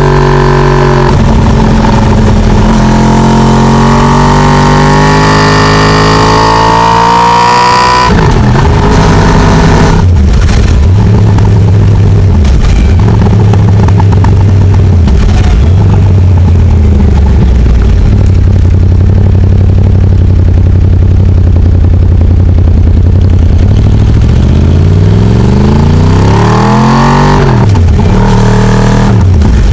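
Yamaha R1's big-bang inline-four engine heard on board, pulling hard with its pitch rising for about eight seconds, then dropping sharply. It runs steadily at lower revs with brief dips, and revs rise and fall again near the end.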